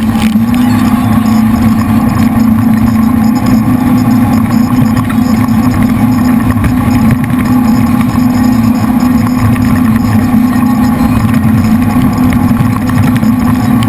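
Jet boat's three V8 engines running steadily under power, a loud, even drone with a constant hum.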